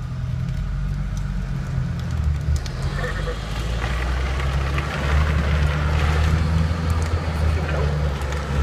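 A car's engine running steadily as it tows a drift trike on a strap. The hiss of the trike's wheels rolling and sliding on concrete builds from about three seconds in as it picks up speed.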